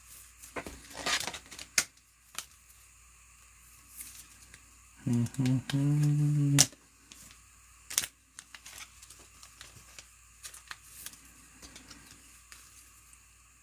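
Trading cards being handled: scattered sharp clicks and snaps as cards are flicked through and set down. About five seconds in there is a short low voiced sound, a hum or brief vocal noise lasting about a second and a half.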